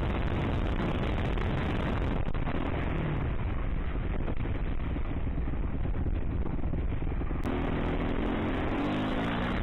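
Dirt bike riding at speed, with heavy wind rush on the microphone. Its engine note comes through clearly near the end, with the pitch stepping down.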